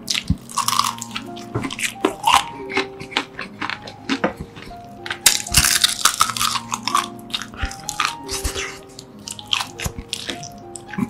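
Close-up crunching and chewing of crispy whole fried chicken, with the loudest run of crunches about five to six seconds in, over background music of held notes.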